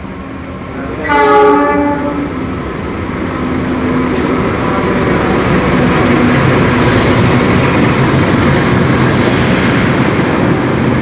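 Diesel-electric CC 206 locomotive sounds its horn once, about a second long, about a second in. Its engine and the wheels of the passenger train then grow louder as it passes close by and stay steady.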